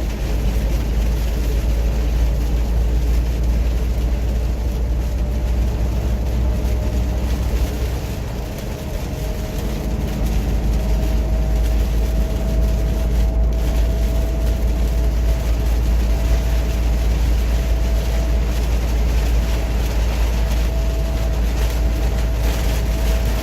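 Heavy truck cruising in rain, heard inside the cab: a steady low engine and road drone with tyres running on the wet road and a faint steady whine over it. The loudness dips briefly about eight seconds in, then picks up again.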